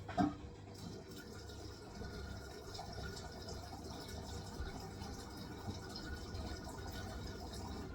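Water rushing into a Hisense washing machine's drum through the inlet valve as it fills on the wool cycle. The rush starts suddenly and runs steadily until it cuts off near the end.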